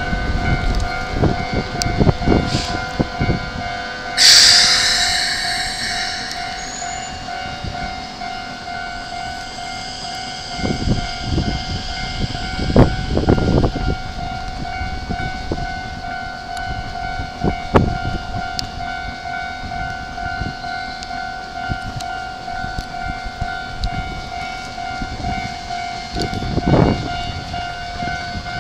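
Keikyu Line electric train with a steady high hum throughout. A sudden hiss comes about four seconds in and fades over a couple of seconds, with scattered low thumps along the way.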